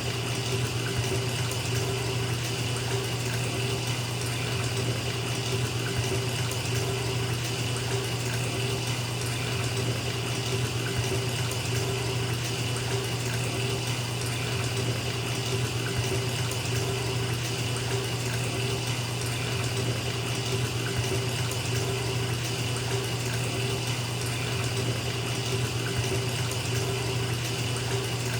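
Bathtub tap running and pouring into a filling tub, a steady unbroken rush of water with a low hum beneath it.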